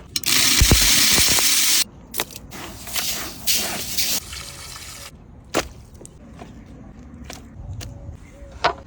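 Water gushing and splashing in short spells, the loudest spell cut off abruptly about two seconds in, followed by a few sharp knocks.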